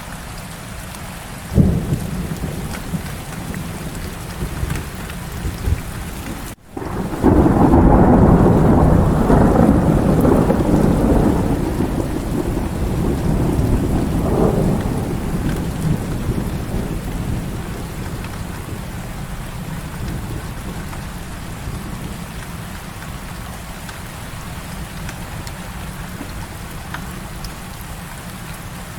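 Heavy rain falling steadily, with a long roll of thunder that starts about seven seconds in, stays loudest for several seconds, swells again and then slowly fades. There is a short sharp crack early on, and the sound drops out for an instant just before the thunder.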